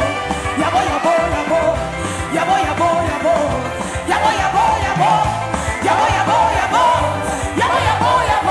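Gospel worship music: a voice singing a melodic line over a backing band.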